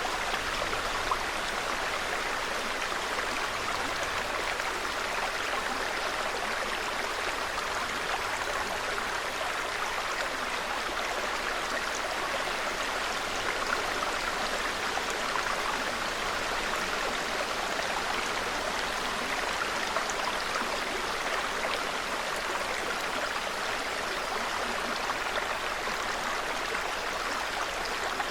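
Small mountain stream babbling steadily, an even, unbroken rush of running water.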